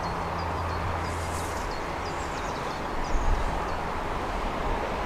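A small bird singing a run of short, high chirps, a few a second, over a steady wash of outdoor background noise. Low rumbles come in from about three seconds in.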